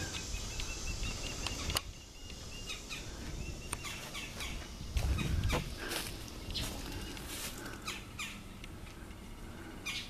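Outdoor ambience with birds calling in short repeated chirps, mostly in the first half, over scattered light clicks and a low rumble about five seconds in.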